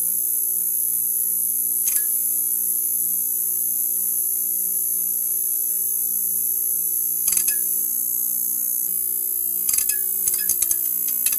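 Neon sign buzzing: a steady electrical hum with a high hiss over it, broken by short clicks once about two seconds in, again around seven seconds in, and in a quick cluster near the end.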